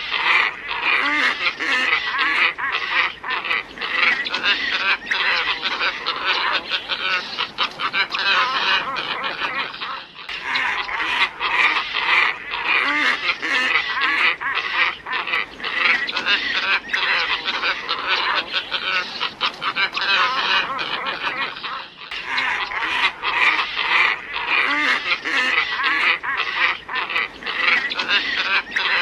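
A flock of glossy ibises calling: dense, overlapping honking croaks, played as a looped lure recording that restarts about every twelve seconds.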